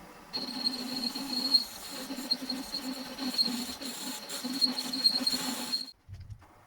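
A machine runs with a steady high whine over a hiss and a low rumble, for about five and a half seconds, then cuts off suddenly.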